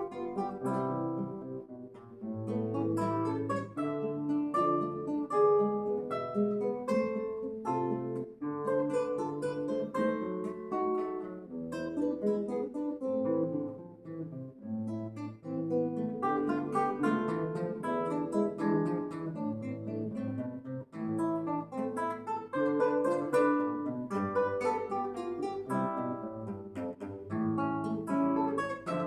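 Acoustic guitar playing a solo instrumental piece, plucked notes and chords following one another steadily.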